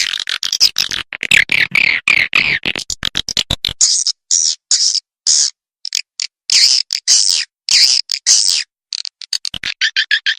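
Swiftlet lure-call recording: rapid high-pitched swiftlet twittering for the first few seconds, then separate short chirps with silent gaps between them. It is the kind of call played in swiftlet houses to draw the birds in.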